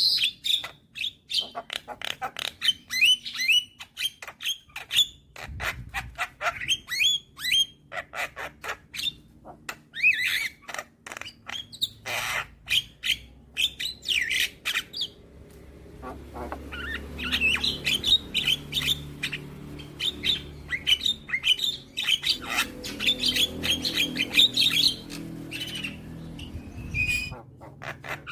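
Young Javan myna calling without a break: a rapid string of harsh squawks, clicks and short whistled notes. About halfway through it turns into a denser, continuous chatter over a low background rumble, which stops shortly before the end.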